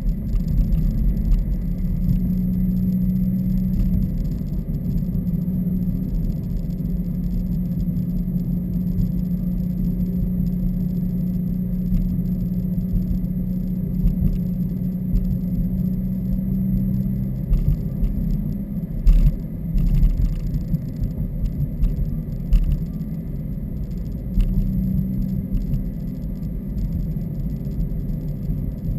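2015 Subaru WRX's turbocharged flat-four with axleback muffler deletes, exhaust droning steadily at a constant engine speed. About two-thirds of the way in the drone eases and shifts in pitch, with a few short knocks.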